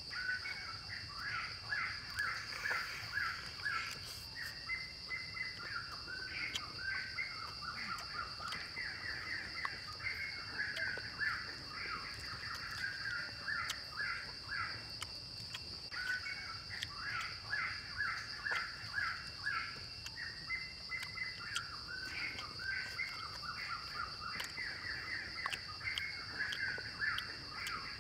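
Outdoor ambience of many small birds chirping and chattering in quick, overlapping calls, over a steady high-pitched drone.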